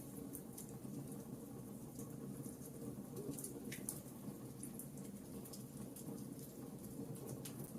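Wood fire burning in a fireplace: logs crackling with irregular sharp pops over a low steady rumble of the flames.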